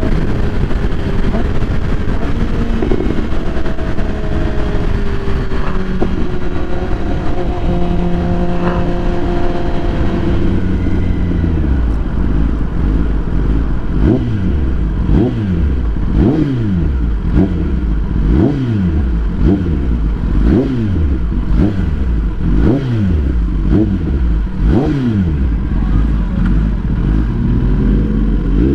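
Motorcycle engine running, then revved in a rapid series of about ten throttle blips, roughly one a second, from about halfway through.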